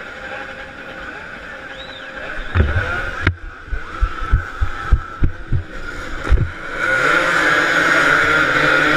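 Several two-stroke motorcycle engines running at high revs, growing louder about seven seconds in. In the middle comes a run of sharp low thumps.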